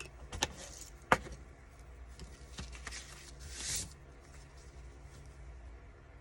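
Craft papers being handled on a work table: two sharp taps, about half a second and a second in, and a short paper rustle just before four seconds, over a faint low hum.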